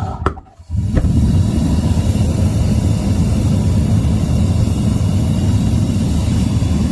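Triple-burner propane gas forge running hard: a steady, loud burner rumble with a hiss above it. It cuts in about a second in, after a brief drop to near silence.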